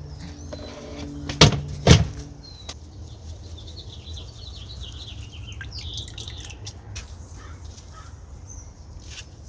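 Two sharp knocks close together about a second and a half in, then a small bird chirping a quick run of high notes over a low, steady rumble, with a few light ticks near the end.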